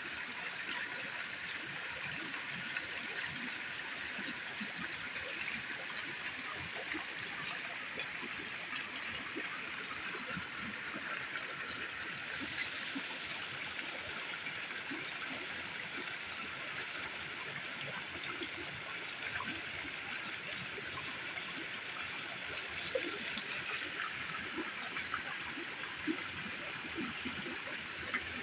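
Steady rush of water, with scattered small ticks.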